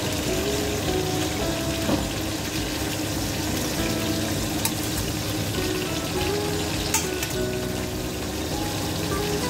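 Chicken sizzling and frying in a stainless steel pot, turned with metal tongs that click against the pot a few times. Background music plays along.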